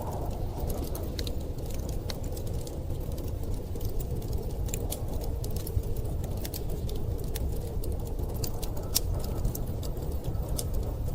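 Wood fire crackling, with many small sharp pops scattered irregularly over a steady low rumble of storm wind.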